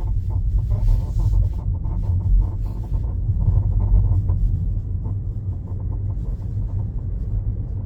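Tesla Model 3 control arms squeaking with short chirps, mostly in the first half, over steady road rumble heard inside the moving car: the chirping is the sign of worn or dry control-arm bushings.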